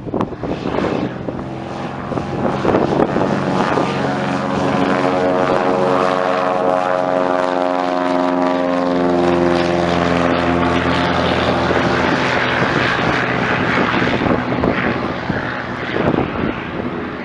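Propeller airplane engine passing by: a steady drone of many even tones that slowly falls in pitch as it goes past, then fades near the end.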